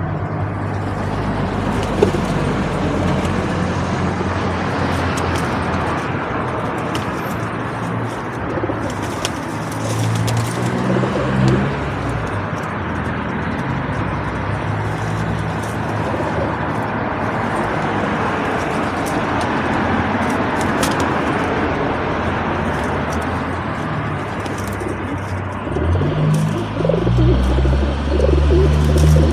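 Feral pigeons cooing over a steady background hum of traffic, with a few short clicks. A vehicle's engine grows louder near the end.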